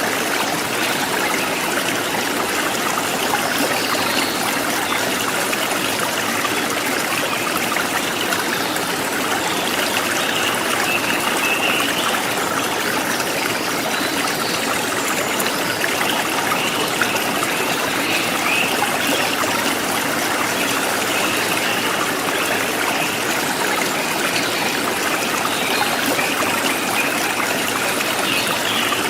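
River water flowing steadily over rocks, a continuous rushing and trickling.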